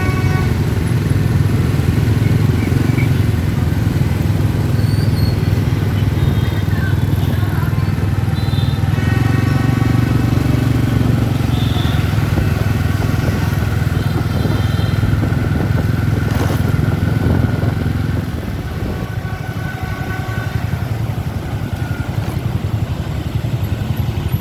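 Dense motorbike traffic running in a crowded street, a steady mass of small engines, with short high steady tones sounding over it several times. The traffic gets a little quieter about three quarters of the way through.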